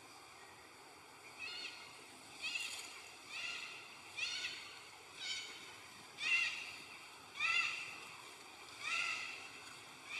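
A young monkey giving repeated short, high-pitched calls, about eight in a row roughly a second apart, each rising and falling in pitch.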